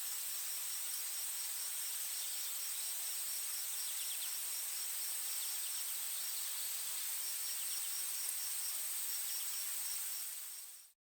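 Insects at night over a steady hiss: a continuous high-pitched whine and a cricket-like chirp repeating several times a second, which pauses briefly past the middle.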